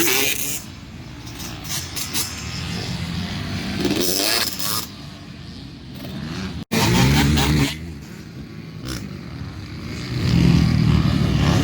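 Dirt bike engines running and revving at a motocross track, the sound swelling and fading in short stretches, with an abrupt cut about two-thirds of the way through.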